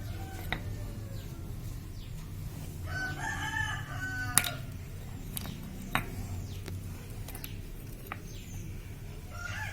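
A rooster crowing about three seconds in and again near the end, over a low steady hum. A few sharp clicks, the loudest just after the first crow, as roller weights are set into a scooter's variator roller unit.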